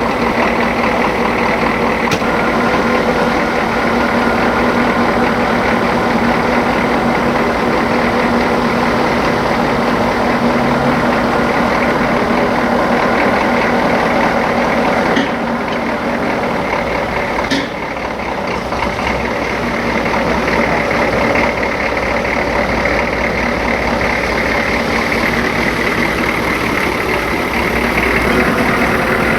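Vehicle engine running steadily under load while towing another truck; the sound dips slightly about halfway through, with a brief click shortly after.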